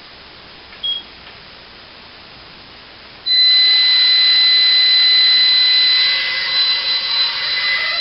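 Small toy quadcopter's motors starting up suddenly about three seconds in to a loud, high-pitched whine, steady at first and then wavering as the throttle changes. A short beep sounds about a second in.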